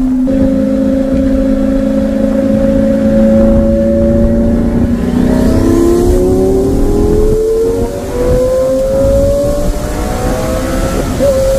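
Twin-turbo Lamborghini Gallardo's V10 engine under way: it holds a steady note for about five seconds, then climbs steadily in pitch as the car accelerates.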